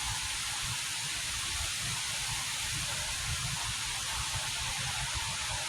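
Strong wind blowing across the microphone: irregular low rumbling buffets over a steady hiss.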